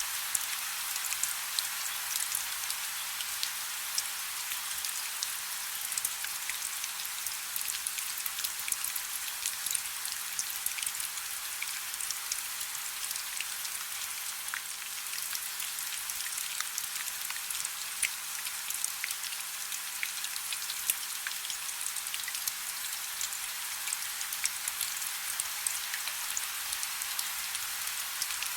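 Soft rain falling steadily, a continuous high hiss with many small individual drops ticking through it.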